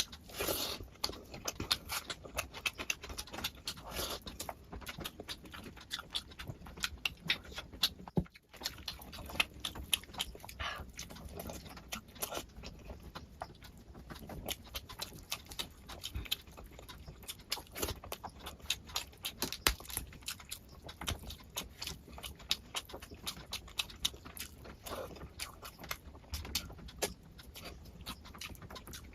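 Close-miked eating sounds: a person chewing and smacking through mouthfuls of rice and curry, a steady run of wet clicks and smacks with a brief break about eight seconds in.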